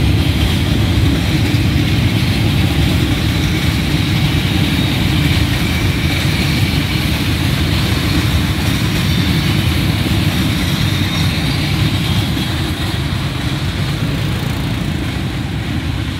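Freight train of boxcars rolling past on the track: a steady low rumble of wagon wheels on the rails, easing off near the end as the last wagons go by.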